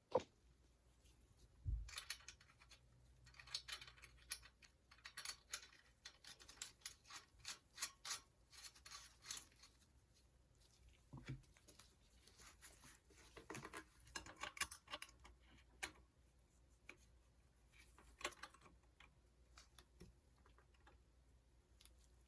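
Irregular light clicks and taps of tools and metal bicycle parts being handled during bottom-bracket repair work, in clusters with short pauses between.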